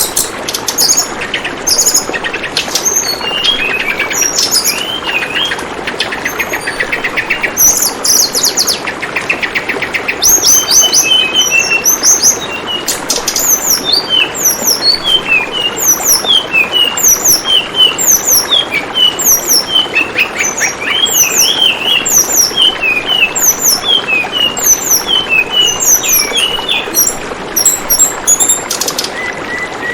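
Tledekan bambu calling over a steady trickle of running water: many short, sharp high chirps repeated rapidly, with a couple of buzzy rattling trills in the first third.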